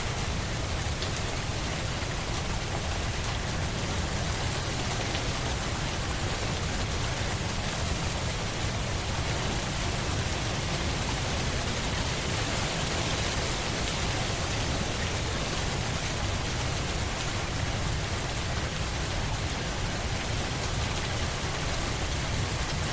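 Steady rain falling, an even patter with a low rumble underneath.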